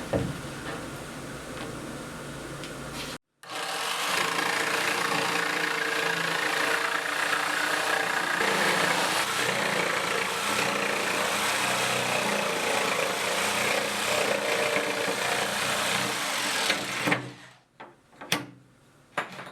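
Power saw running steadily for about thirteen seconds while notching framing lumber, then stopping; a few sharp clicks and knocks follow near the end.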